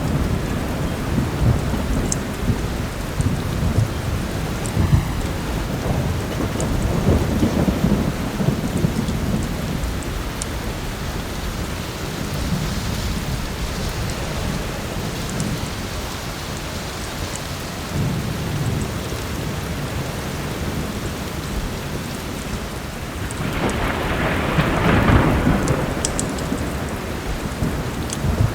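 Heavy rain falling steadily with continuous rolling thunder, which swells louder near the end. A fireplace gives a few sharp crackles through it.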